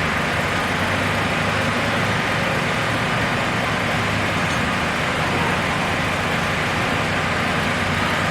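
Steady urban road traffic, with a low engine hum from vehicles running or idling.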